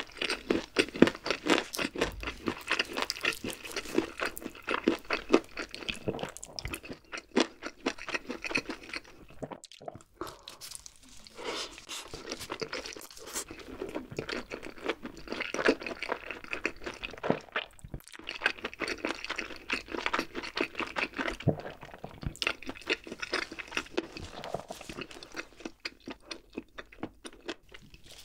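Close-miked chewing of a mouthful of glazed grilled chicken: a dense run of quick crunchy crackles and mouth sounds, easing off briefly about ten and eighteen seconds in.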